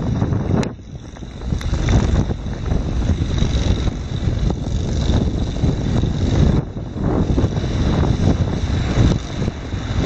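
Wind buffeting the microphone in gusts, a loud low rumble that dips briefly about a second in and again around seven seconds.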